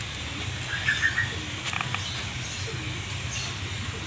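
A short run of bird chirps about a second in, over a steady low hum, with a couple of light metallic clicks as the brake booster's cover and return spring are handled onto its housing.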